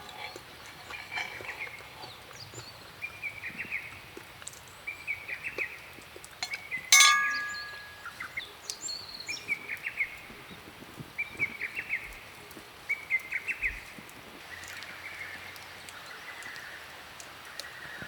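Birds singing in short, repeated chirping phrases about once a second. About seven seconds in comes a single sharp clink with a brief ring, the loudest sound here.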